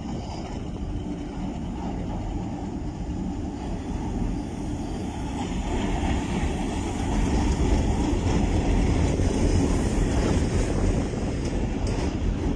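Passenger train crossing a steel girder bridge: a diesel locomotive's rumble growing louder as it passes close by, loudest from about seven seconds in. The coaches follow, rolling past with wheel clicks near the end.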